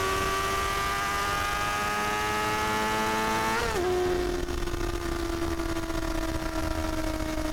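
Honda Hornet 250's inline-four engine and exhaust running at high revs, the pitch climbing slowly. About three and a half seconds in it gives a quick jump up and drop, then the pitch slides gradually lower.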